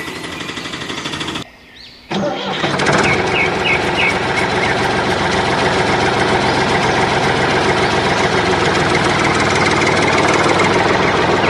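A rattling, engine-like running sound breaks off about a second and a half in. Half a second later an engine sound starts up and runs steadily, growing slowly louder.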